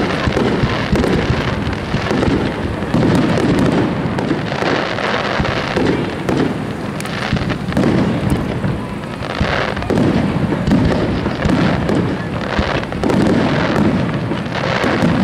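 Fireworks starmine: many aerial shells launched and bursting in quick succession. Booms and crackling overlap with no break.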